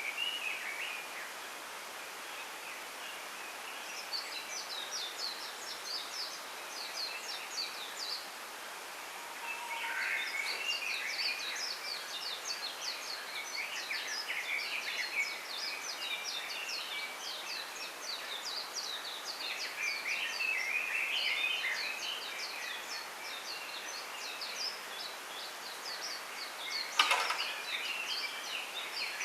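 Small songbirds singing in a bamboo grove: long runs of rapid, high, repeated trill notes mixed with lower warbling phrases, over a steady hiss. A single sharp click sounds about 27 seconds in.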